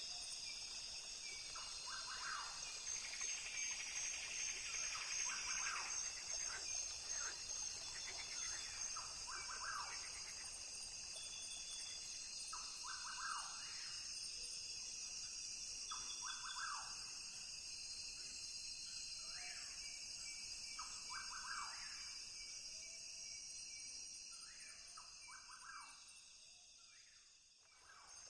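Rainforest ambience: a steady, dense high-pitched insect chorus with short animal calls repeating every couple of seconds. The whole sound dips briefly near the end, then comes back.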